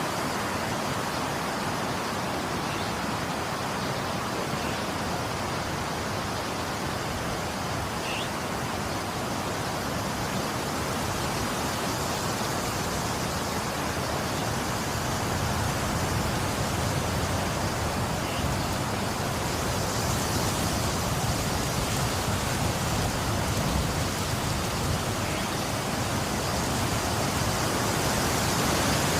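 Steady rain falling as a constant hiss, with a low rumble swelling in the second half.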